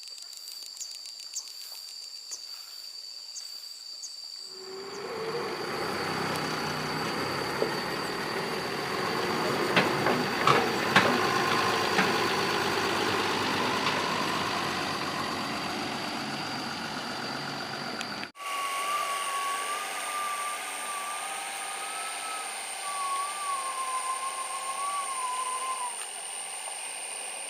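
Doosan 140 excavator running as it digs, with a few sharp metal knocks about ten seconds in. The machine noise swells about five seconds in and drops back after a cut partway through, where a thin wavering whine runs above it.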